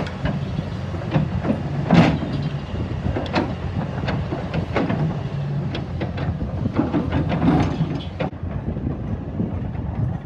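A heavy vehicle's engine running steadily, with scattered knocks and clanks over it.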